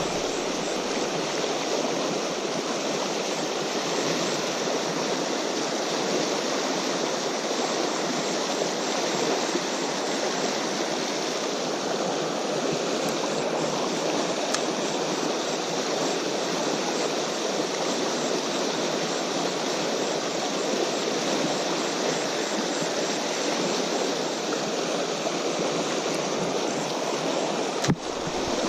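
Steady rush of flowing river water, with one brief click near the end.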